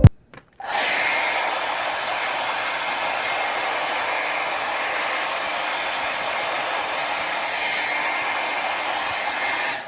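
Hair dryer running steadily with a rushing airflow and a faint motor whine. It switches on about a second in and cuts off just before the end.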